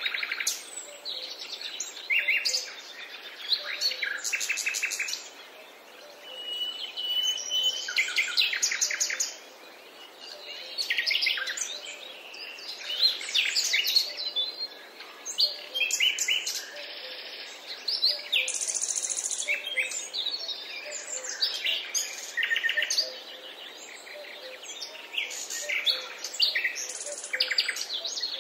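Songbirds singing and chirping, several at once, with overlapping trills and fast runs of repeated notes.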